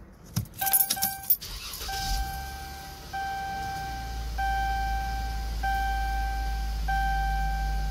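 Keys jangling and clicking in the ignition of a 2011–2013 Dodge Durango. The engine starts about two seconds in and settles into a steady idle. Over it a dashboard warning chime repeats, one note a little over a second long, again and again.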